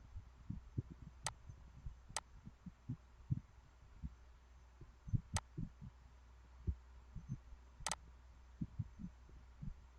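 Irregular soft low knocks, several a second, with four sharp clicks scattered through, over a steady low hum.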